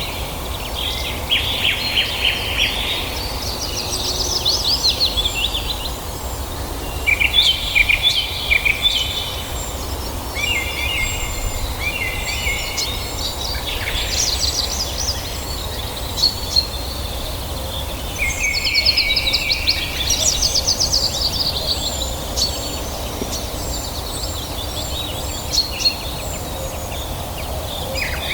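Songbirds singing in bursts of rapid, high trilled phrases, with sparse thin chirps between them, over a steady low background hiss.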